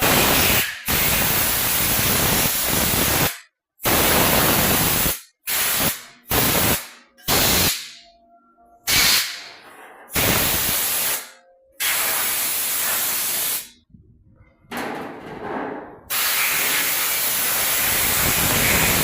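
Compressed-air spray gun fired in about a dozen short bursts of loud hiss, each starting and cutting off sharply, as engine parts are blown clean or washed.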